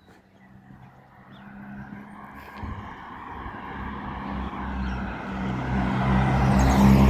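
A motor vehicle approaching, its engine hum and tyre noise growing steadily louder until it is close by near the end.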